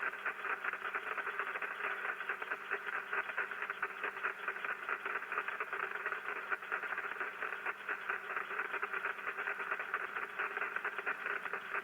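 HF receiver audio of rain static (QRN) picked up by a Yagi antenna: a steady, dense, rapid crackling hiss through the radio's narrow audio passband, with no filter or noise blanker. The operator is unsure of its cause and suggests tiny spark discharges on or near the antenna.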